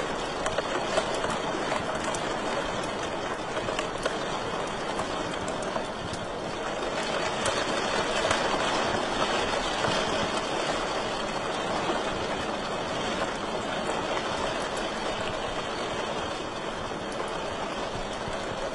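Wood fire crackling in a fireplace: a steady hiss of burning with many small, sharp pops.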